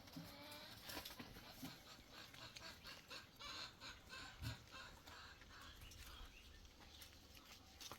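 Faint hen clucking, in short calls, with scattered small clicks and knocks.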